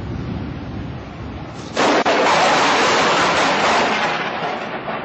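A close lightning strike: a sudden loud thunderclap about two seconds in, fading away over the next few seconds, after a low rumble of wind and storm noise.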